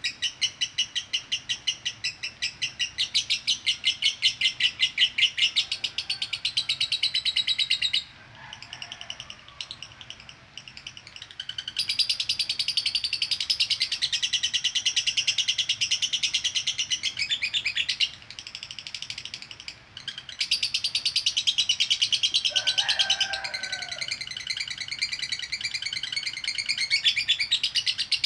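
Female lovebird singing a long, rapid chattering trill ('ngekek konslet'): shrill chirps repeated several times a second in long unbroken runs, with short breaks about eight and eighteen seconds in. A few lower, softer chirps sound now and then.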